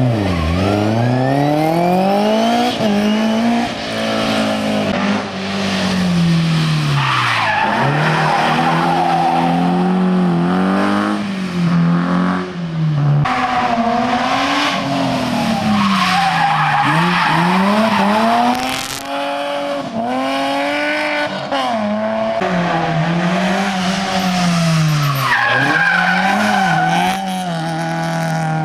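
Historic rally car engine driven hard on a special stage, its pitch climbing under acceleration and dropping sharply at each gear change or lift, over and over, with tyre squeal as it is pushed through corners.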